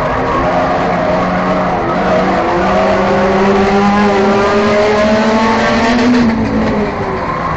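Enduro race car's engine running hard under racing load, its pitch climbing steadily for about six seconds, then falling as the throttle comes off near the end.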